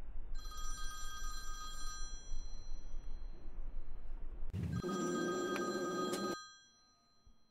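A bell-like ringing tone sounds twice over a low rumble: briefly at first, then louder a few seconds later with a thump at its start. After that the sound fades out.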